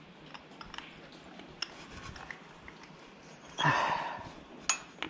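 Spark plug wrench being fitted and worked on a motorcycle spark plug: light metal clicks and taps, with a louder rasping burst about three and a half seconds in and two sharp clicks near the end.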